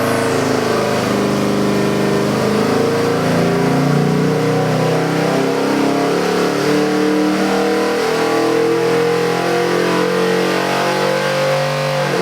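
Ford 347 cubic-inch small-block stroker V8 running a dyno pull: the engine note climbs steadily in revs for most of the run, then drops away sharply right at the end as the throttle comes off.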